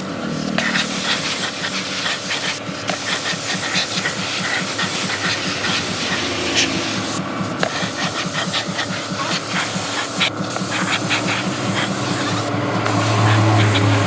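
Paint spraying in long hissing passes, broken by brief pauses where the spray stops. It is a titanium-effect colour coat being built up in several layers over a matte black base.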